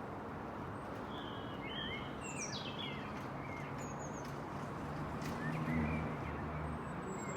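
Songbirds chirping in short, quick calls that glide up and down, most of them in the first half, over a steady background rumble.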